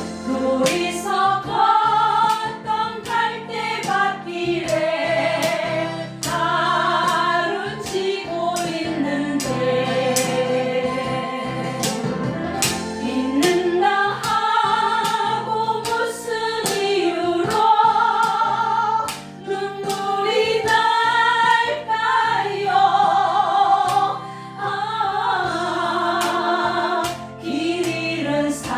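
Several voices singing a slow Korean ballad together over a backing track with a steady beat.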